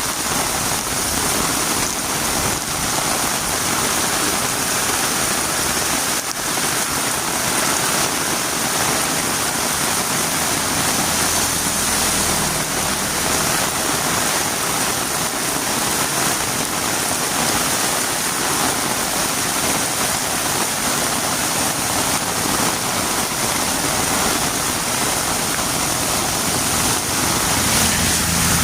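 Heavy rain falling steadily on a road, a dense, even hiss.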